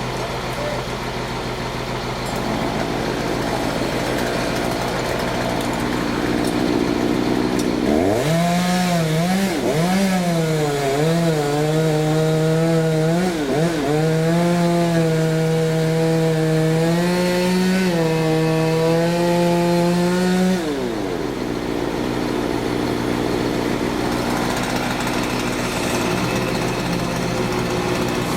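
Chainsaw running at high revs for about twelve seconds, its pitch dipping and recovering several times before it drops back, over a steady lower engine idling underneath.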